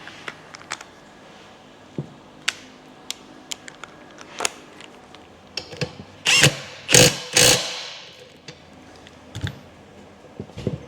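Metal transmission parts clinking and knocking as they are handled and fitted, with three louder, longer rattles about six to seven and a half seconds in.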